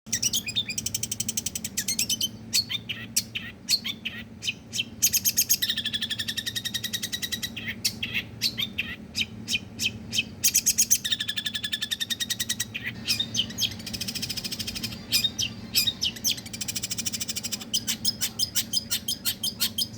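Long-tailed shrike (pentet) singing fast 'tembakan' phrases: rapid runs of repeated sharp notes and trills, broken by short pauses, over a low steady hum.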